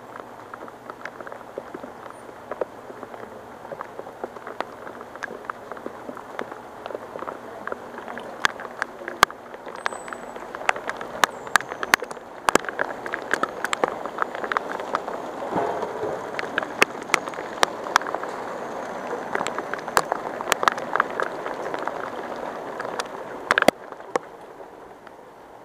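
Heavy rain falling, with many sharp drops striking close to the microphone. It grows heavier about halfway through and eases shortly before the end.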